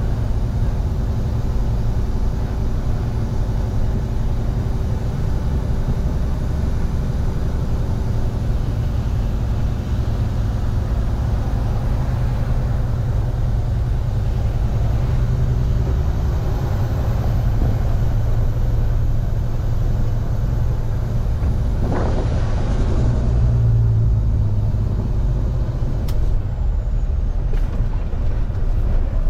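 Tractor-trailer truck running steadily under way, a continuous low engine and road rumble heard from inside the cab. A short burst of noise about three-quarters of the way through breaks the rumble.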